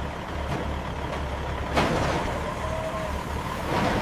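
Truck engine running steadily at low revs, with a short sudden burst of air hiss about two seconds in, like an air brake letting off.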